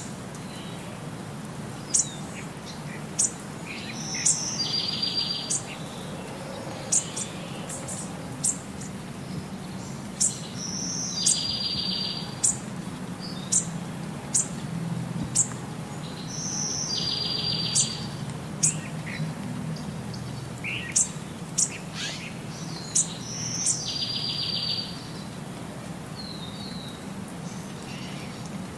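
Birds singing: sharp high chirps scattered throughout, and a buzzy trill about a second long that comes back roughly every six seconds in the same pattern, over a steady low hum.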